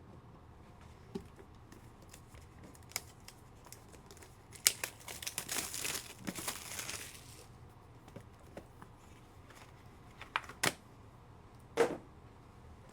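Crinkling and rustling of plastic packaging as trading cards are handled and unwrapped, with a few light clicks and taps of cards or card holders.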